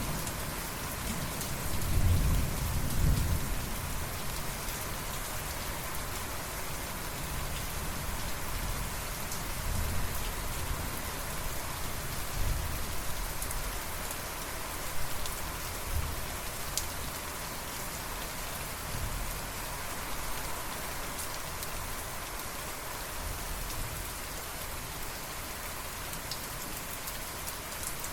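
Steady rain falling on a surface, with a low rumble of thunder swelling about two to three seconds in and fainter low rumbles later on.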